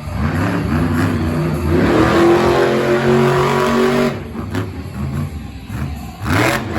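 Monster truck engine revving hard: its pitch climbs over about two seconds, holds high and loud, then drops off about four seconds in, with another short rising rev near the end.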